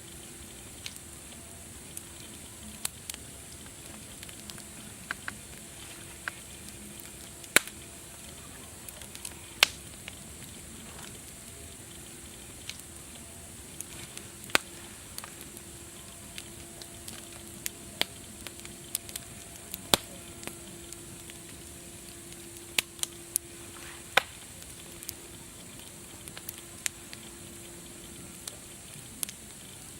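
Wood fire crackling, with irregular sharp pops, several of them loud, over a steady hiss.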